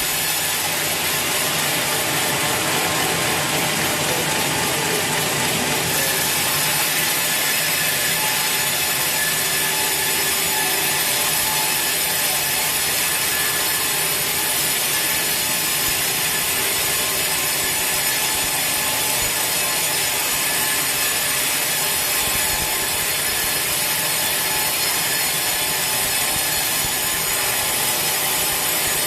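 Sawmill saw cutting steadily through a large teak log, a continuous high hiss of the blade in the wood.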